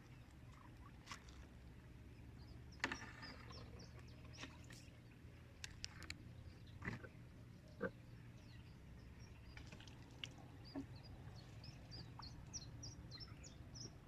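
Small birds chirping in short high notes, thickest near the end, over a low steady hum. A few sharp knocks come through, the loudest about three seconds in and others around seven and eight seconds.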